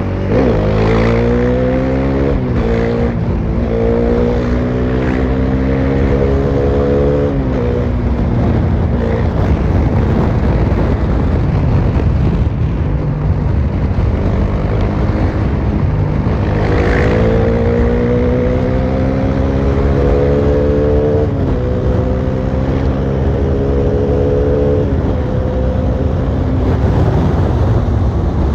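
Bajaj Dominar 400's single-cylinder engine with its muffler removed, accelerating hard through the gears twice: the raw exhaust note climbs, drops back at each upshift, then holds steady at cruise. A steady wind rush runs underneath.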